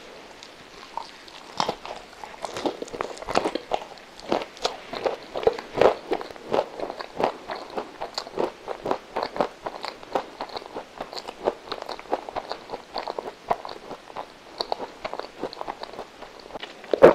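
Close-miked chewing of a soft, custard-filled milk roll coated in shredded coconut. The mouth makes rapid short clicks and smacks, several a second, starting about a second in.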